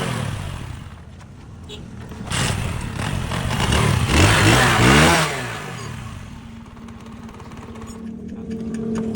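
Motorcycle engine running and revved: the pitch climbs about four seconds in, then drops back and settles into a steady idle.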